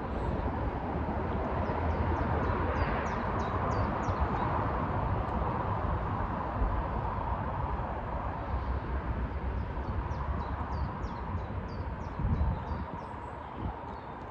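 A small bird calling in two rapid series of short, high, downward chirps, about two seconds in and again after ten seconds, over a steady low rumble of outdoor noise.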